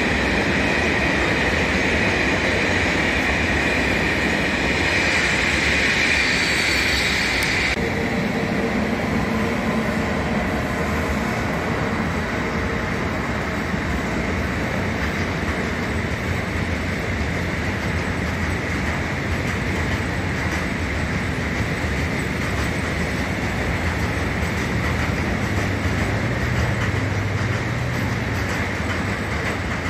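Freight train wagons rolling past on steel rails, a steady rumble of wheels and track. A high, steady wheel squeal stops abruptly about eight seconds in, where another freight train's wagons take over, rolling by with a low rumble.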